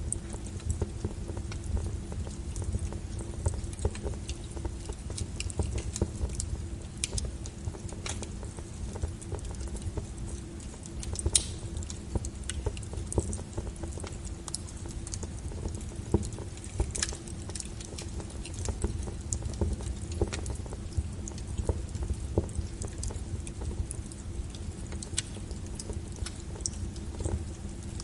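Wood fire crackling: irregular sharp pops and snaps of burning firewood over a steady low rumble of the flames.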